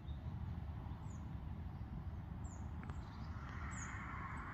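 Quiet outdoor ambience: a bird gives a few short, high, falling chirps, spaced a second or so apart, over a low steady rumble. A faint steady hiss in the middle range comes in about three and a half seconds in.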